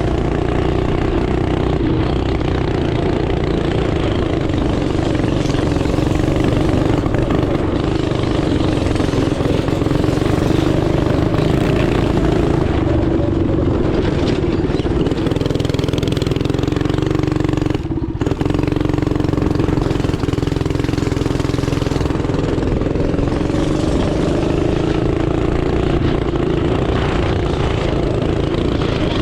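Small single-cylinder engine running hard and steady at high revs, its pitch wavering slightly with the throttle, with a brief gap about two-thirds through.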